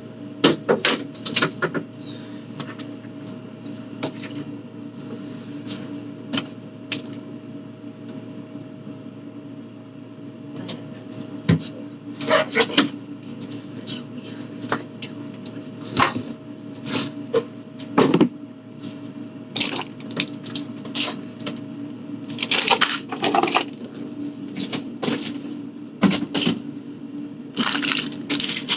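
Food containers and packages being handled, moved and set down: irregular clicks, knocks and short crinkling rustles over a steady low hum.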